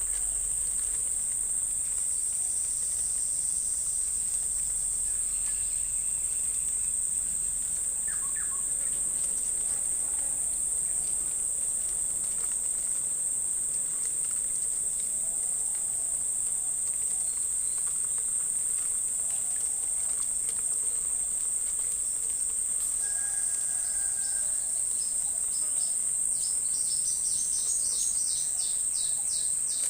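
Insects droning steadily in one unbroken high-pitched tone, with a run of quick pulsed chirps, about five a second, near the end.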